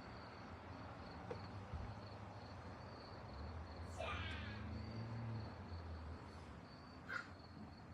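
Faint, high-pitched mews of newborn kittens: one short cry about four seconds in and another just after seven seconds, over a faint, steady, high chirping.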